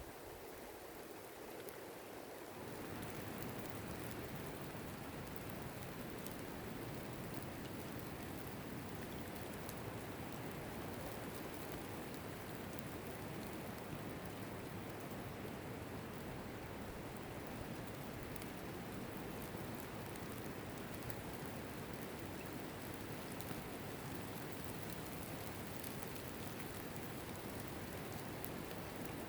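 Steady rainfall: an even hiss of rain with fine drop ticks. It swells slightly about two seconds in, then stays level.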